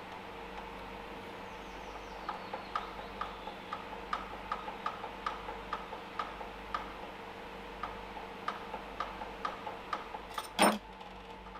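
Light metallic clicks, roughly two a second with uneven spacing, from hand-tool work on the valve-clearance adjustment of a Briggs & Stratton DOV overhead-valve engine. One louder knock comes near the end.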